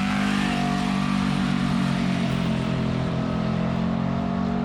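Twin-turbo GMC pickup engine pulling hard at full throttle down the drag strip, its note climbing steadily as the revs rise in one gear.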